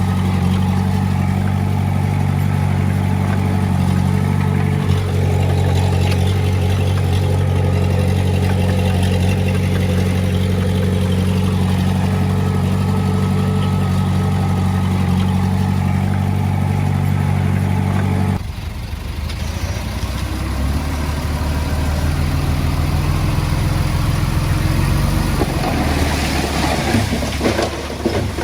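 Diesel engine of heavy earthmoving equipment running at a steady speed. About two-thirds of the way through, the sound changes abruptly to a quieter, rougher engine note that rises and falls, with some clattering near the end.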